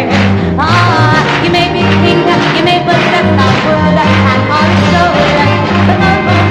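Live band music with a steady beat and a moving bass line, playing on after the end of the song.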